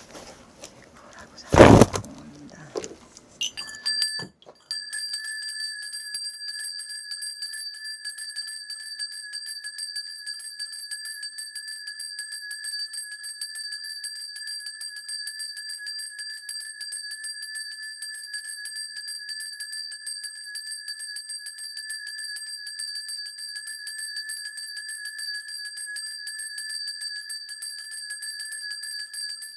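A loud knock, then from about five seconds in a shaman's ritual bell cluster shaken without a break in a fast, steady jingle.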